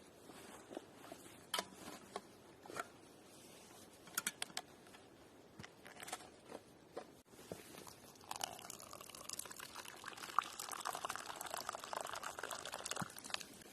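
Scattered small clicks and knocks, then about eight seconds in liquid pours steadily into a container for around five seconds, its pitch rising slightly as it fills.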